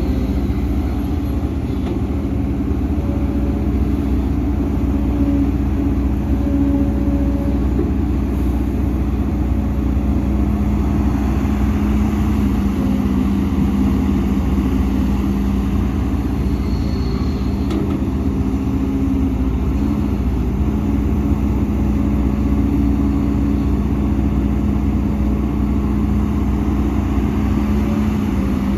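Heavy diesel engine of earthmoving machinery running steadily at an even speed, its pitch holding level throughout.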